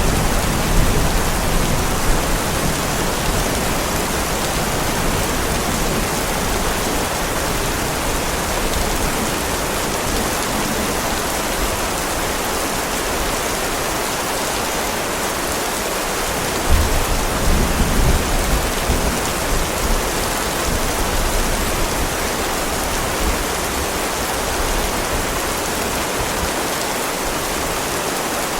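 Heavy rain falling steadily, with low rolls of thunder at the start and again a little past the middle.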